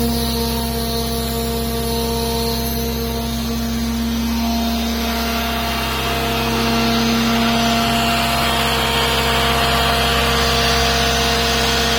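Deutz engine running steadily under a power test. Its sound shifts about four to five seconds in and grows slightly louder after about six and a half seconds.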